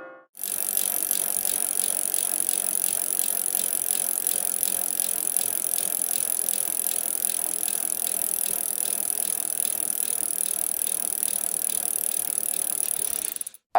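Stock sound effect: a steady, fast mechanical rattle over a hiss, starting and stopping abruptly and lasting about thirteen seconds.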